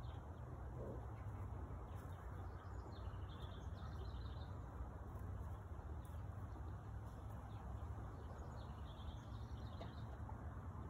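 Outdoor ambience: a steady low rumble with faint bird chirps, a short run about three seconds in and another near the end.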